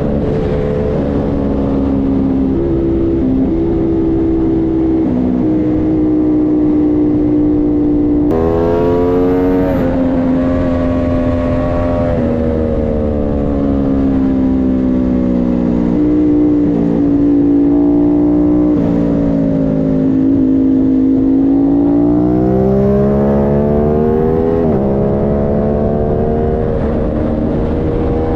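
Aprilia Tuono 660's parallel-twin engine running hard on track, its pitch climbing and falling with throttle and speed and breaking suddenly at gear changes, over steady wind noise.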